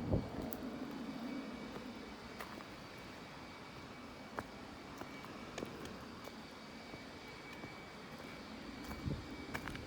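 A low, distant engine drone fading out over the first two seconds, then quiet outdoor ambience with faint steady high tones and a few light clicks.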